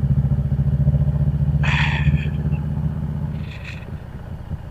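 Harley-Davidson V-twin motorcycle engine running steadily under way as a fast, even low rumble. About three and a half seconds in the sound drops off as the throttle is rolled back and the bike slows.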